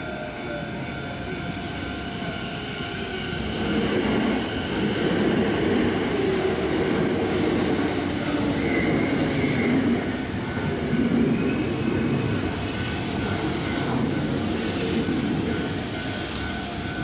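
Sanyo 6000 series electric train moving through the station, a steady rumble with wheel squeal and a few thin steady tones, growing louder about four seconds in.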